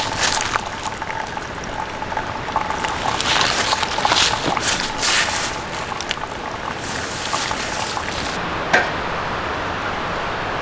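Liquid sounds coming in uneven surges, with a sharp click about nine seconds in, followed by a steady hiss.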